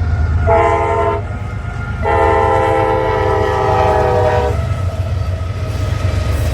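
Freight train diesel locomotive sounding its multi-tone air horn, a short blast then a longer one, over the steady low rumble of the passing train.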